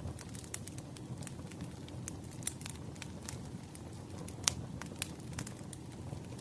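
Firewood burning: a steady low rumble of the flames with irregular sharp crackles and pops, one louder pop about two-thirds of the way through.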